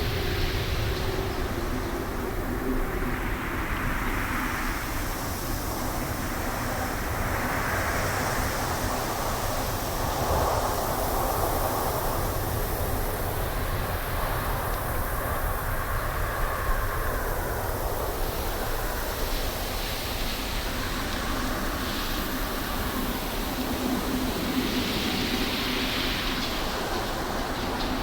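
Wind blowing through trees in gusts: a steady rush with a deep rumble underneath, swelling and easing every few seconds.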